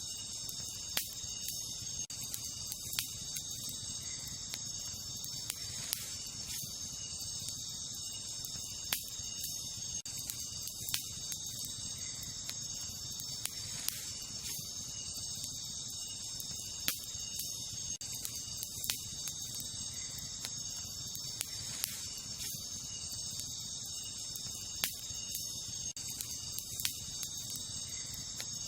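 Wood campfire crackling, with sharp pops every second or two, over a steady high-pitched chorus of night insects such as crickets.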